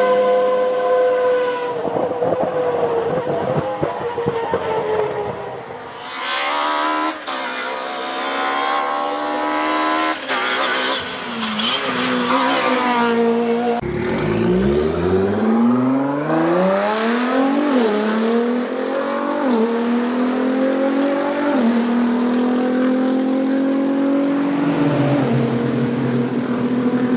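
Nissan 370Z's 3.7-litre V6 engine accelerating hard: its pitch climbs repeatedly and drops sharply at each upshift, with several shifts in a row after a climb from low revs about halfway through, settling to a steady cruise near the end.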